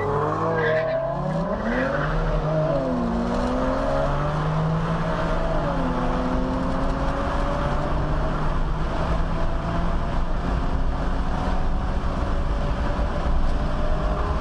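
Car engine accelerating hard, its pitch climbing and dropping back at each gear change, over steady road noise.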